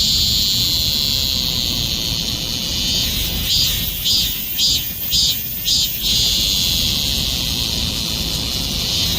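A cicada singing: a high buzzing drone held for about three seconds, then a run of about five pulsed buzzes at roughly two a second, then the long drone again.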